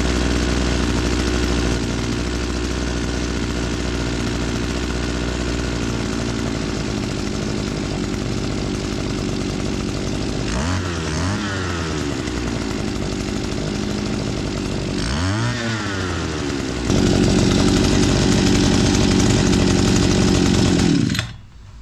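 Oleamac BCH 40 brushcutter's two-stroke engine running on a newly fitted carburetor, the sound the repairer means to show as healthy running. It runs steadily, is revved up and back down twice around the middle, then is held at higher revs for about four seconds before it stops near the end.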